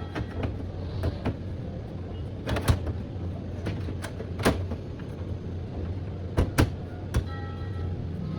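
Sheet-metal side cover of a desktop computer case being fitted back on, a string of sharp clicks and knocks as the panel is handled and pressed into place, over a steady low hum.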